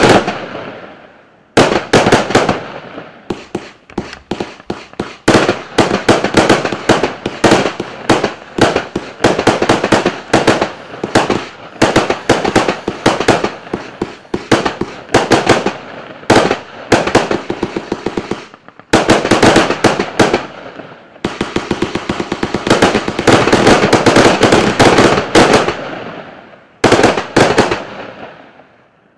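Klasek C14025XFS firework battery firing rapid volleys of sharp shots and bursts, several volleys in a row separated by brief lulls. The last volley dies away near the end.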